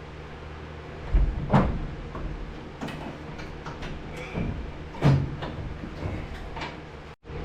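Heavy metal clunks and knocks as an engine is worked down into a truck's engine bay. There are a few loud clunks about a second and a half in and again about five seconds in, with lighter clicks between, over a steady low hum.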